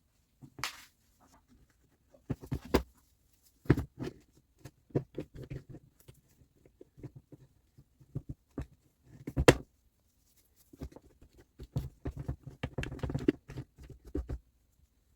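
Irregular clicks, taps and knocks of tools and small saw parts being handled at a workbench, with a sharp knock about halfway through and a busier run of small rattles near the end.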